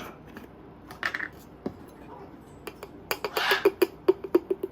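Kitchen utensils clinking and tapping against a dish while bird food is mixed: a few separate clicks, then a quick run of taps about three seconds in.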